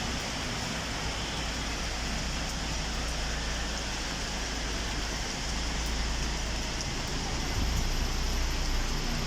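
Steady rain hiss with a low, steady rumble underneath.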